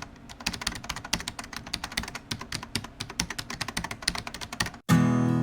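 Rapid, irregular clicks of keyboard typing. Near the end it cuts off and strummed acoustic guitar music starts.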